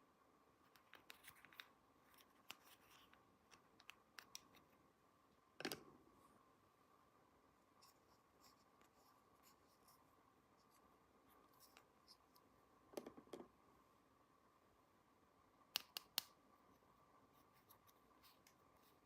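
Faint, scattered clicks and taps of small plastic toy pieces being handled, the loudest about six seconds in, over a faint steady hum.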